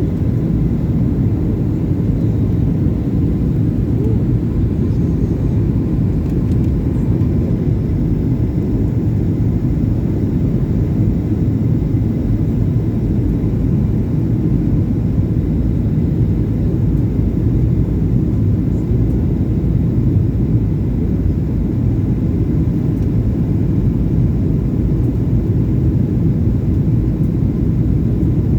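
Boeing 737-800 airliner's engines and airflow: a steady, even low rumble with no change in pitch or level.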